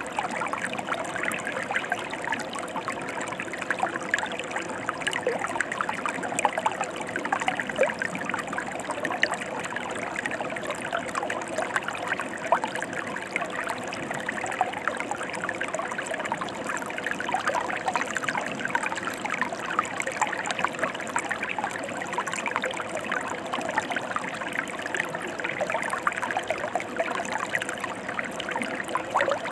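Shallow mountain stream running steadily over rocks: a dense, even rush of water full of small splashes and trickles.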